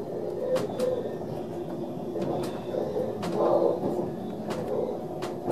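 ÖBB Railjet passenger coach running along the track, heard from inside: a steady rumble with a faint hum, broken by scattered sharp clicks.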